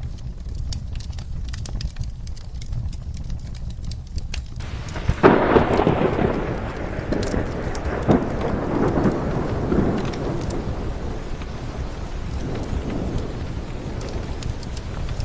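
Steady rain with a fireplace crackling in scattered sharp pops. About five seconds in, a loud thunderclap breaks and rumbles away over several seconds.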